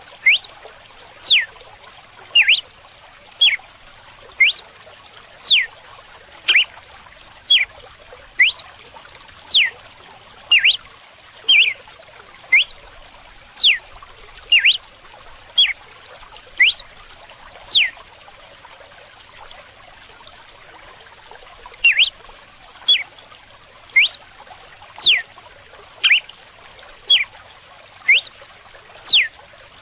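Red-cowled cardinal singing its whip-like 'açoite' song: short, sharp whistled sweeps rising and falling in pitch, about one a second, with a pause of a few seconds just past the middle. Steady trickling running water underneath.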